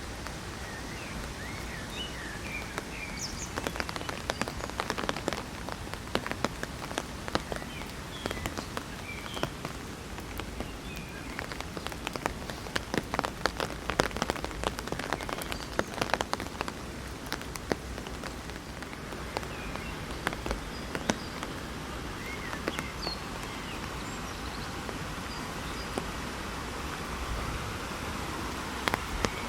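Rain falling on an umbrella overhead: a steady hiss of rain with sharp drop strikes on the canopy, coming thickest through the middle.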